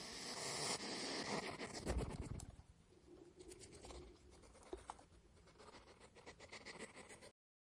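Hedgehog rustling and scratching through leaf litter and low plants as it forages, with many small crackles and clicks. Louder for the first couple of seconds, then fainter, and it stops abruptly near the end.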